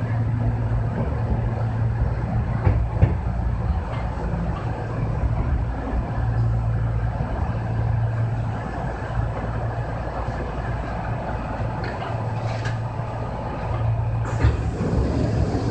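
Interior running noise of a Kintetsu 6020 series electric train, heard from the cab as it moves slowly alongside a station platform. There is a steady low hum and a few light wheel clicks, and the sound changes briefly near the end.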